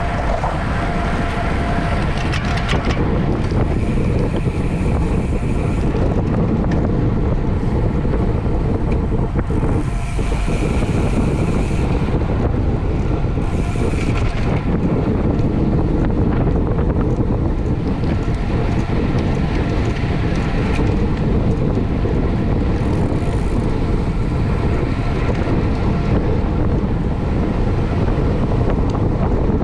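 Steady wind rush across the microphone of a camera riding along in a bicycle race at speed.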